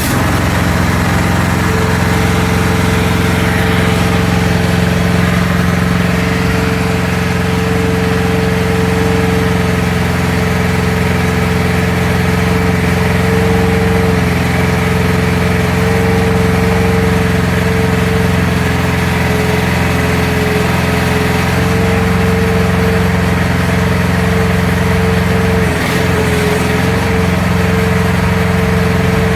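AGT QH12R mini excavator's gasoline engine idling steadily, just started after a hydraulic oil change. A steady whine joins about two seconds in and holds.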